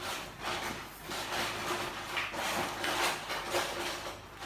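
A sheet of paper being handled and folded into a paper airplane, in repeated irregular rustles and crinkles.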